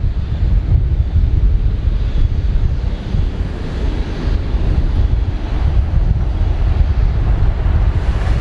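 Wind buffeting the microphone outdoors: a loud, gusty low rumble that rises and falls unevenly, with no clear engine tone standing out.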